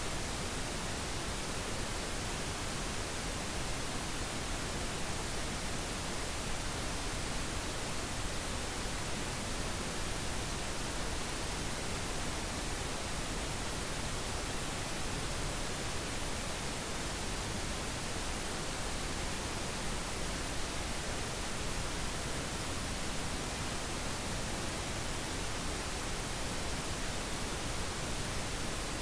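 Steady pink noise, an even hiss spread across all pitches with no change in level.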